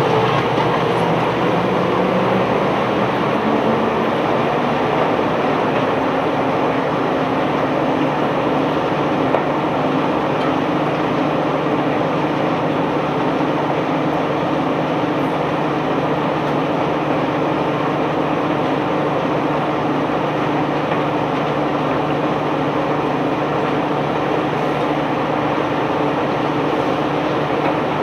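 Heavy diesel machinery running steadily with a continuous dense rumble; its engine pitch shifts slightly in the first few seconds.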